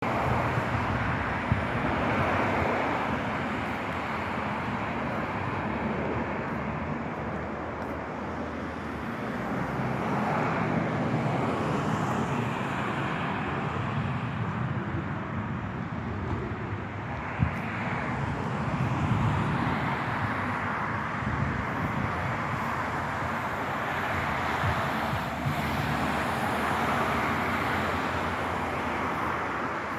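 Hawker Hurricane's Rolls-Royce Merlin V12 piston engine running steadily, its level swelling and easing slowly, with a couple of brief clicks.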